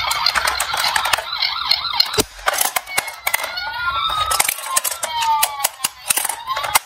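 Siren wails from toy emergency vehicles over the rapid clatter of small toy cars knocking together. After about three seconds the wails separate into several distinct rising and falling sweeps.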